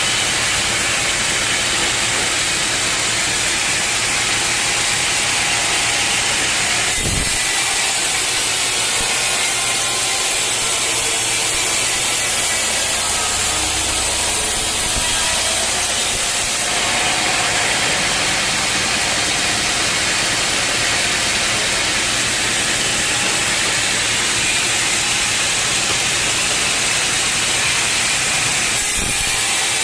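Sawmill saw cutting through a dense old teak log, a loud, steady noise with a strong high edge. Its tone shifts about 7 seconds in and again about 17 seconds in.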